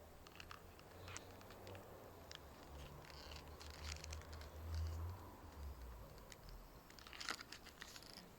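Leather wallet handled close to the microphone: faint scattered creaks and crackles of the leather over a low handling rumble. The rumble is strongest about halfway through.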